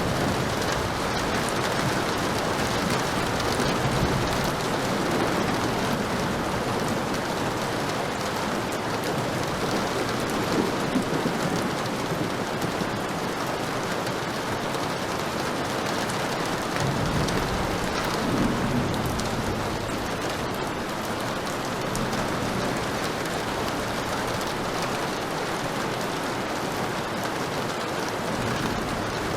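Heavy rain falling steadily, with low rumbles of thunder near the start and again a little past halfway.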